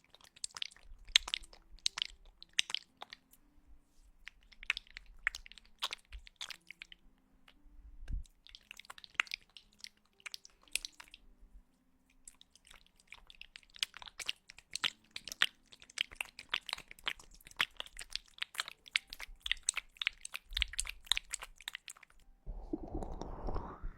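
Close-miked ASMR clicking and crackling in quick runs of sharp, crisp clicks, broken by short pauses. A louder breathy rush comes in near the end.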